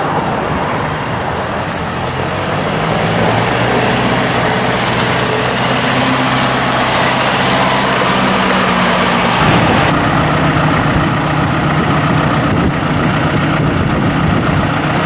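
A 2015 John Deere 5100E's turbocharged four-cylinder diesel engine running steadily. Its note changes abruptly about nine and a half seconds in to a different steady pitch.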